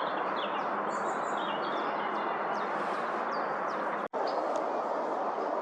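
Small birds chirping and twittering over a steady rushing background noise. The sound cuts out for an instant about four seconds in.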